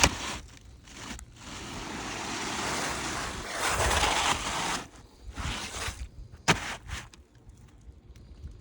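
Old, brittle asphalt shingles scraping and rustling as they are lifted and moved by hand, swelling over a few seconds and stopping abruptly, with a few sharp clicks and taps around it.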